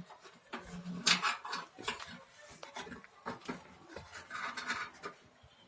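Irregular metallic clicks, taps and scraping of tools and fittings as a pipe connection is tightened on a gas water heater.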